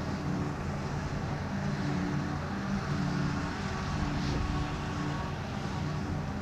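Heavy diesel farm machinery running steadily under load, with a deep engine rumble and a constant pitched drone.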